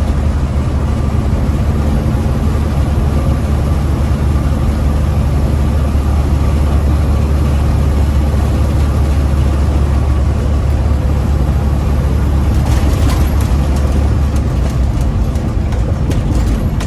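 Big rig truck's diesel engine running steadily with a deep, constant drone. A run of light rattles or clicks starts about twelve seconds in.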